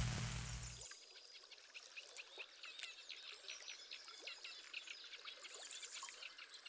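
Faint birds chirping, many short high calls overlapping. Before them, a steady hiss with a low hum cuts off about a second in.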